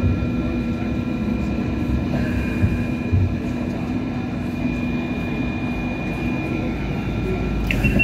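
Interior running noise of a first-generation Hong Kong Light Rail car: a steady rumble with several constant whine tones, and a low swell near the end.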